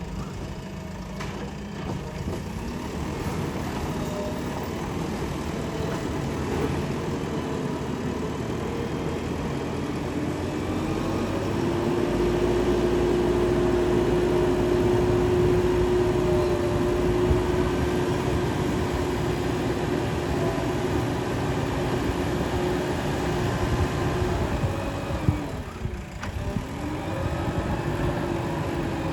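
JCB 3DX backhoe loader's diesel engine running under work. Its pitch rises about a third of the way in and holds steady, then dips briefly near the end and picks back up. A single sharp knock comes just before the dip.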